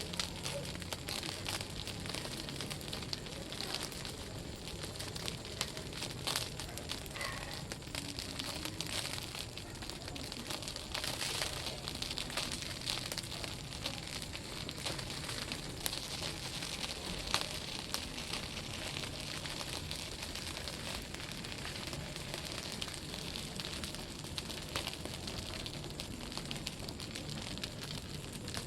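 Campfire burning: a steady hiss with scattered sharp crackles, one louder pop about two-thirds of the way through.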